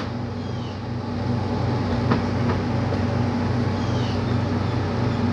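A large engine, likely a truck idling at the depot, runs steadily with a low, even drone. There is a single click about two seconds in and a few faint high chirps.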